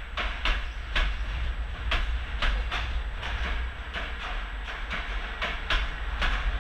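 Passenger train with a pair of CFR electric locomotives rolling past: wheels clicking over the rail joints about twice a second, over a low steady rumble.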